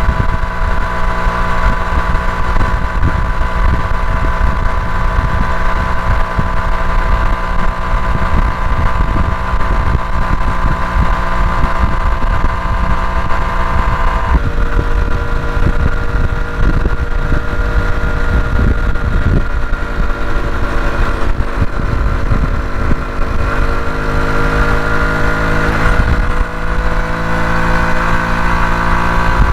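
Honda CT125 Hunter Cub's single-cylinder engine running under way, with wind rumbling on the microphone. The engine note drops about halfway through, then rises slowly near the end.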